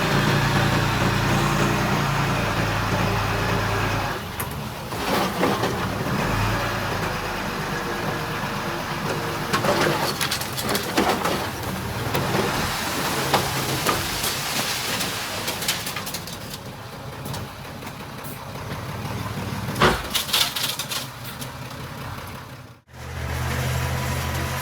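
Heavy diesel earthmoving machinery at work. A diesel engine runs with a steady low drone for the first few seconds, then gives way to a longer stretch of clanking and rattling with scattered knocks. The sound cuts out abruptly near the end and an engine drone comes back.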